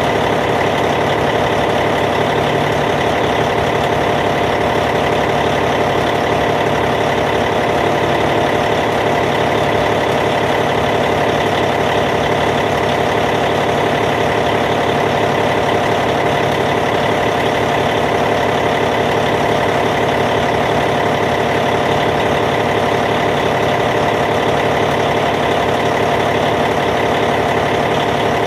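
Caterpillar C15 inline-six diesel engine of a Cat D8T bulldozer idling steadily.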